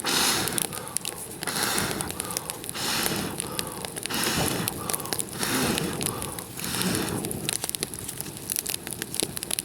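Campfire of dry resinous kindling crackling with sharp pops, and about six rhythmic whooshing rushes a little over a second apart during the first seven seconds.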